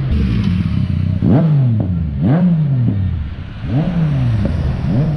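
A vehicle engine revved over and over: about four throttle blips, each rising sharply in pitch and then dying away.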